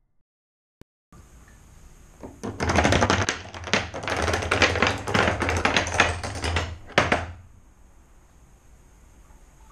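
A long, rapid clatter of metal padlocks knocking into one another for about four and a half seconds, as a chain of padlocks topples like dominoes, with a last couple of clacks about seven seconds in.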